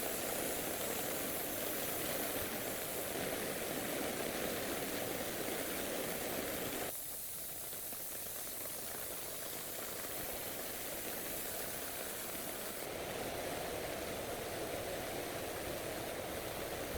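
A steady hissing, mechanical noise that drops off suddenly about seven seconds in and comes back fuller a few seconds later.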